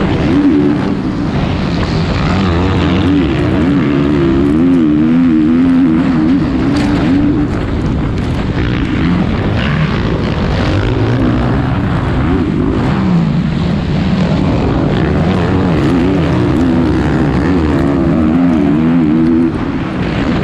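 450cc four-stroke motocross bike engine racing, its pitch rising and falling over and over as the rider works the throttle and shifts, with a rush of wind noise and scattered sharp ticks.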